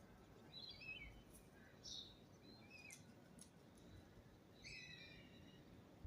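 Birds chirping faintly in short, scattered calls, with a small cluster about a second in and another near five seconds.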